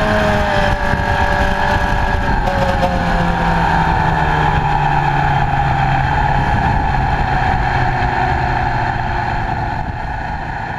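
Motorcycle engine running at track speed, heard from a camera mounted on the bike, with the engine note drifting slowly lower over several seconds. The sound begins to fade out near the end.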